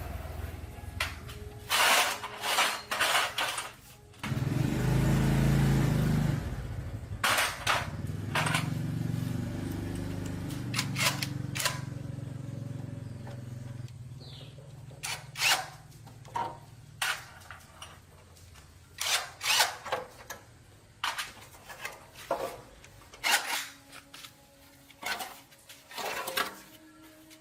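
Repeated knocks and clanks of hand tools on metal, with a motor that starts suddenly about four seconds in, runs loudly for a couple of seconds, then keeps running more quietly and fades out about ten seconds later.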